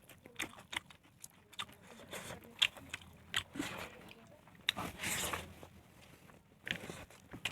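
Eating sounds: chewing, with irregular short clicks and scrapes of food being handled, and a longer rustle about five seconds in.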